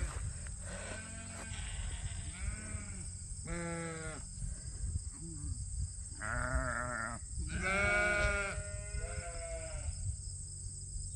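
Sheep bleating, about six separate quavering bleats one after another.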